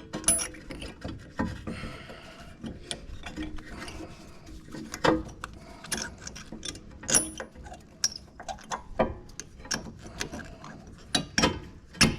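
Hand tools and metal brake parts clicking and knocking irregularly while a car's rear brake pads and caliper are being refitted, with a few louder knocks.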